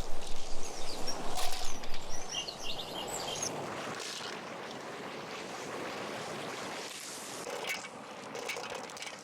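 Steady rush of flowing river water, louder and uneven for the first couple of seconds and then settling to an even level. A few short bird chirps come in about two and a half seconds in.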